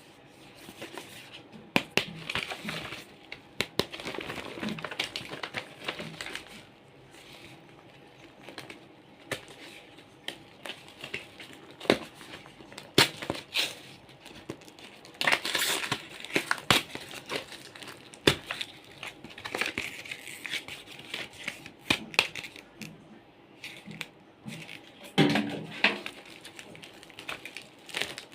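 Toys and their packaging being handled close up: crinkling and rustling with many sharp clicks and taps scattered throughout.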